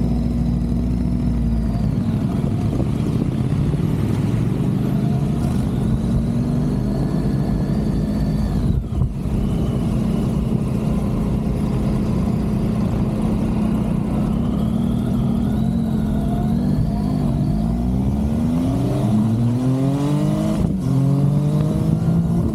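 Triumph Tiger 800's three-cylinder engine running under way. It pulls steadily, then from about two-thirds of the way in it accelerates in several rising sweeps of pitch.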